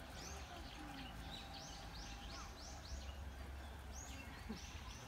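A small songbird singing a run of quick, high, arching notes, about three a second, over a steady outdoor background; a second run comes about four seconds in.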